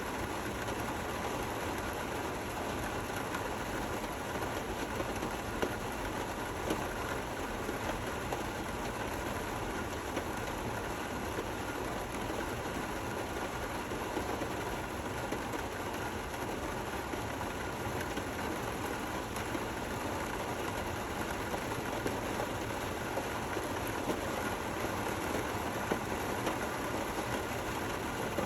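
Steady, gentle rain, an even hiss with a few louder drops ticking now and then.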